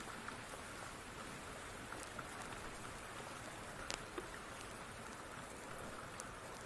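Steady rain hiss with a few scattered sharp crackles of a wood fire, the loudest pair about four seconds in.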